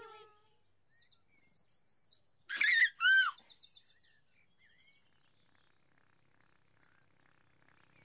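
Small birds chirping and trilling in short high bursts, with a louder call of a few falling notes about two and a half seconds in. Near silence follows for the rest.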